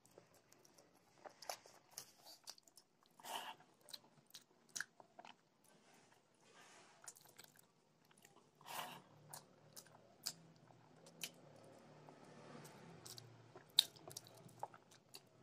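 Close-miked chewing and biting: a person eating fried brinjal and rice, with quiet wet mouth clicks and small crunches throughout and one sharper click near the end.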